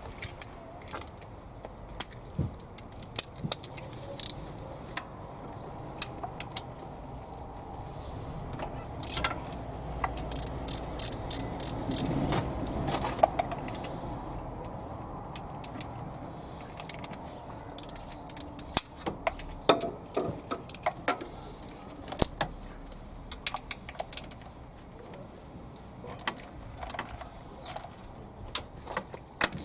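Metal hand tools and fasteners clinking and clicking as engine parts are worked loose, with a quick run of clicks near the middle.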